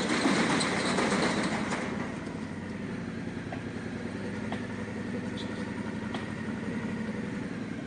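Yamaha Ténéré 700's parallel-twin engine running. It comes in suddenly, is louder for about the first two seconds, then settles to a steady idle.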